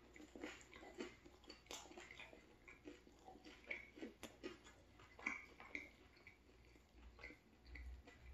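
Quiet chewing of a mouthful of turkey sandwich on ciabatta bread: soft, irregular crunches and mouth clicks.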